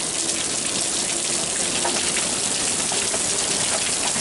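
Heavy rain pouring down onto a wet wooden deck, with water streaming off the roof edge: a steady, even hiss with scattered small drips and plinks.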